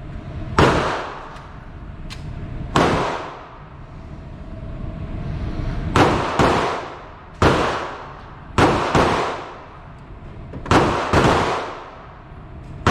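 9mm handgun shots, about nine of them, fired at an uneven pace with some in quick pairs, each followed by a short fading echo.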